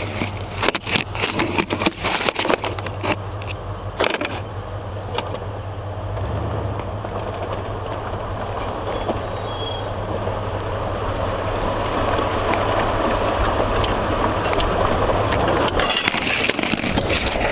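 Jeep Wagoneer driving over a rough off-road trail: the engine runs low and steady, with knocks and rattles over the first few seconds, then a steady rushing noise that slowly grows louder.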